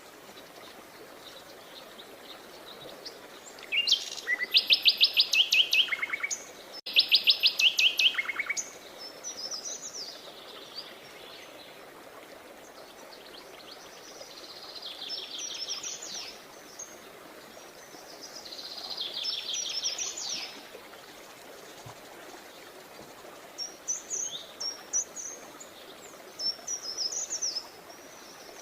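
Songbirds singing: two loud, rapid trills of quick repeated notes, each ending in a few lower notes, then two fainter trills and a run of short chirps near the end, over a steady background hiss.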